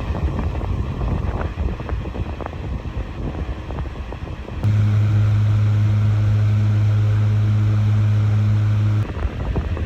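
1916 Westinghouse 10-inch antique table fan running, its air blast buffeting the microphone with a low rumble. About halfway through, a loud steady low hum cuts in abruptly and stops just as suddenly about four seconds later.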